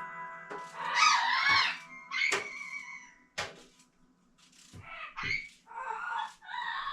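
Amazon parrots squawking and chattering in bursts of squeaky, bending calls, with a few sharp knife taps on a cutting board.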